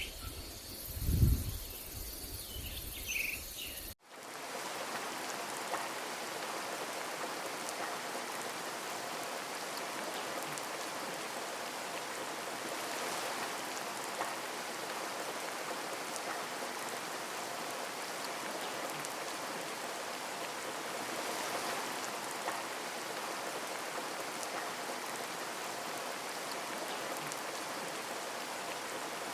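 Steady rain falling, an even hiss with fine patter of drops, after a sudden cut about four seconds in. Before the cut, a steady high insect trill with a short bird chirp and a low thump.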